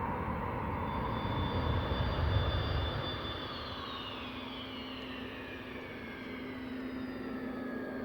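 Military jet engine noise: a heavy low rumble for about three seconds, then a high whine falling slowly in pitch as a jet passes, over a steady low hum.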